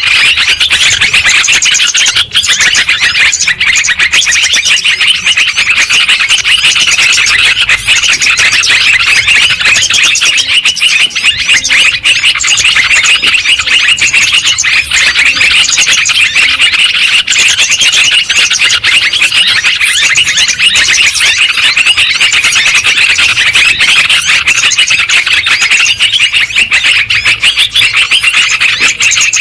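Yellow-vented bulbuls (terucukan) calling noisily: a dense, unbroken stream of quick chirps and bubbly trills that never pauses.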